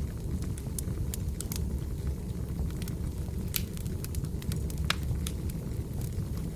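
Wood fire burning: a steady low rumble of flames with sharp crackles and pops of burning logs at irregular moments, the loudest pop a little before five seconds in.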